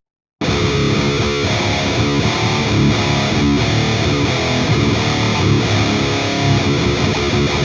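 Heavily distorted electric guitar playing chugging riffs through the Engl Savage 120 Mark II valve amp's channel 4 and a 4x12 cabinet loaded with Celestion V30 speakers. The playing comes in abruptly about half a second in. The noise gate and HM2-style Left Hand Wrath pedal are not engaged.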